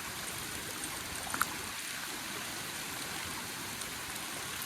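Steady rush of a fast-flowing river, running high after rain.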